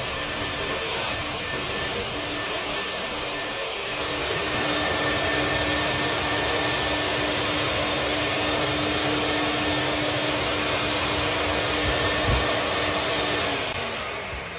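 Vacuum motor running steadily with a constant hum, with a brief thump about twelve seconds in; near the end it is switched off and its pitch falls as it winds down.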